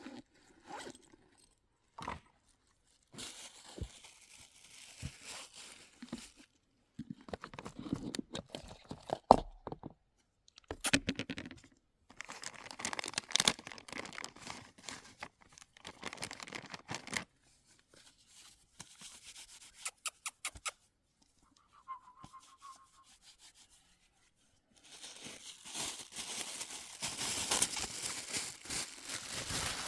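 Irregular rustling and crinkling in bursts of a few seconds, broken by short pauses, with scattered knocks and clicks. This is the sound of material or packaging being handled.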